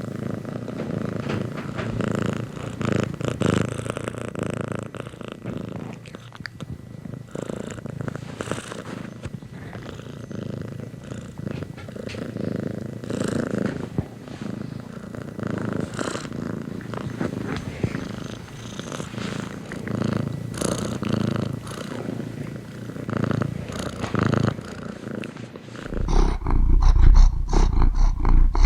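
Domestic cat purring continuously, a low, fine-grained rumble that swells and fades every few seconds. About two seconds before the end it gives way to a much louder, deeper rumble with rapid pulses.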